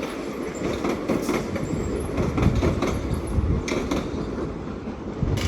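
Passenger train running on the station tracks: a steady rumble of wheels on rail, with a few sharp clicks spaced irregularly through it.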